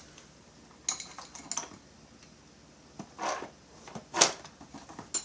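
Small metal chainsaw parts and hand tools clinking and clanking as they are handled during engine assembly: a handful of short sharp clicks, the loudest clank about four seconds in.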